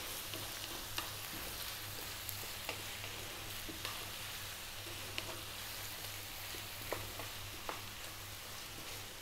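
Chicken pieces, onion and potato chunks sizzling steadily in oil in a non-stick frying pan over a little above medium heat, stirred with a wooden spatula, with a few faint sharp ticks scattered through.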